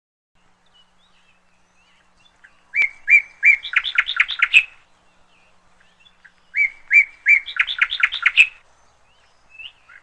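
A songbird singing the same short phrase twice, each about two seconds long: a few spaced notes that quicken into a rapid run of higher notes, with faint chirps between the phrases.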